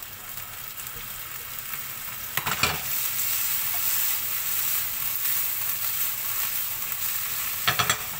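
Halved Brussels sprouts sizzling in a frying pan with fish sauce and maple syrup, the sizzle growing louder about two and a half seconds in. A short clatter of the pan and utensil about two seconds in and again near the end.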